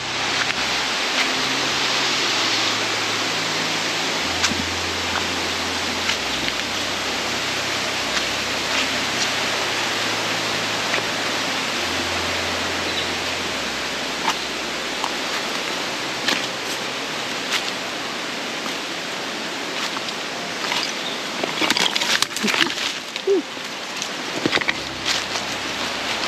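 Steady rush of a mountain waterfall and its stream. In the last few seconds come a cluster of sharp knocks and clicks.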